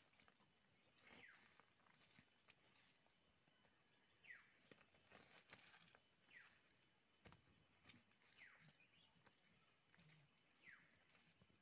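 Near silence, with a faint bird chirp that falls in pitch, repeated about every two seconds.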